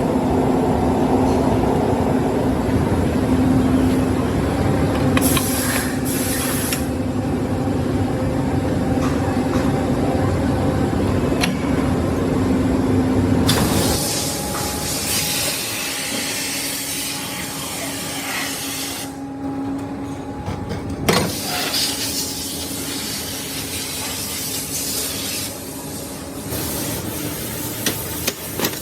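Workshop machinery running: a steady motor hum under loud mechanical noise, which about halfway through gives way to a quieter hiss broken by a few sharp clicks.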